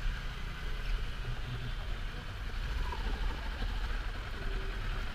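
Kawasaki Ninja 400 parallel-twin engine running steadily at low revs, with a low, even hum and some hiss over it.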